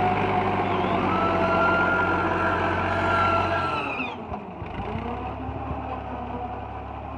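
Fiat 480 tractor's diesel engine running, its pitch rising a little about a second in, then falling away to a quieter, lower run about four seconds in.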